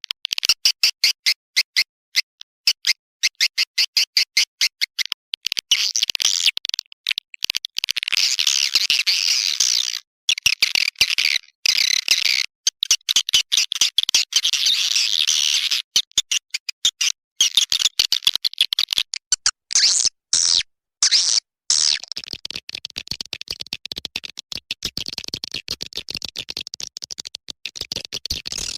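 Swiftlet lure call, a recording of swiftlets' rapid high-pitched clicking chirps and twittering chatter, used to draw swiftlets into a nesting house. It starts as quick trains of clicks, thickens into a continuous buzzy twitter a few seconds in, and settles into a steadier, softer chatter near the end.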